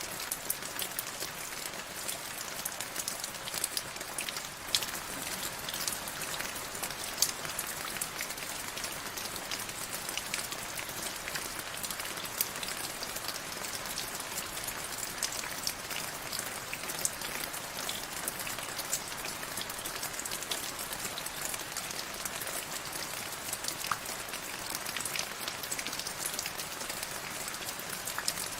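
Steady rain falling, with many sharp individual drops clicking close by.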